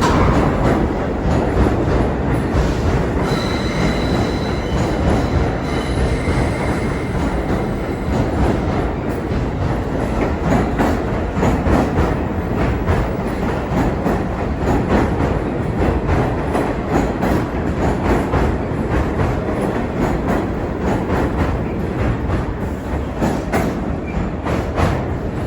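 A New York City subway train running through the station, loud and steady, its wheels clattering over the rail joints. A faint high wheel squeal comes in about three seconds in, and the noise eases slightly near the end.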